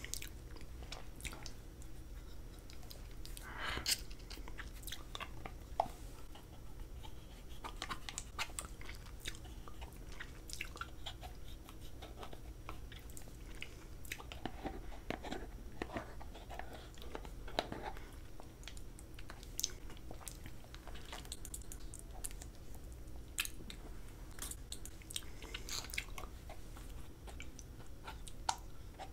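Close-miked ASMR mouth sounds of a person eating soft candy: chewing, biting and sucking, with many scattered short clicks.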